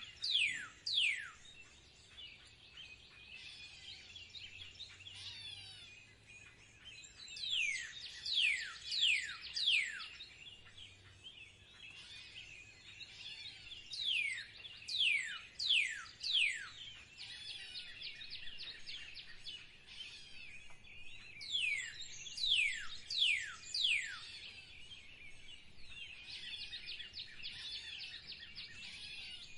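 Songbirds calling: a series of four or five sharply falling whistled notes comes about every seven seconds, over steady twittering and chirping from other birds.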